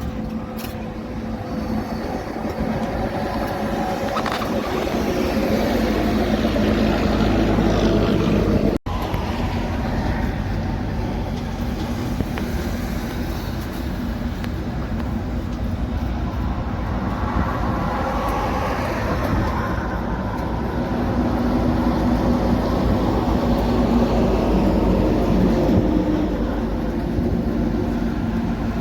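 Heavy trucks driving past on a road: steady engine and tyre noise that swells as each one goes by, with a brief cut-out about nine seconds in.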